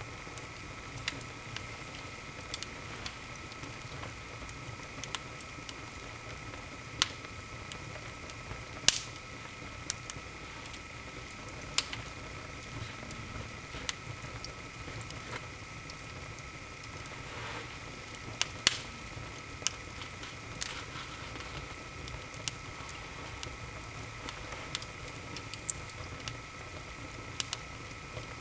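Wood fire burning in an open fireplace, crackling with irregular sharp pops over a steady low hiss.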